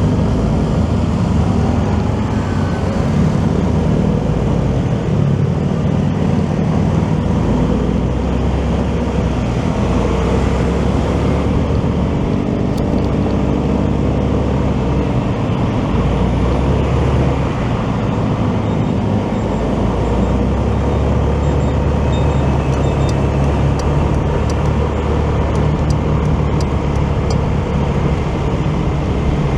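Motorcycle ride through city traffic: a steady, loud rumble of the bike's engine and road noise with passing vehicles, the engine pitch drifting up and down a little.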